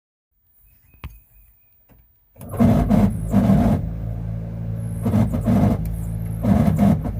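A click, then about two and a half seconds in a squarebody Chevy Suburban's engine starts and settles into a steady idle, with louder pulses standing out of it four times.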